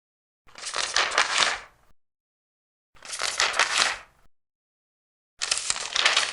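Large paper pages being turned, three times: each turn is a crackling rustle of about a second, with silence between, and the third is still going at the end.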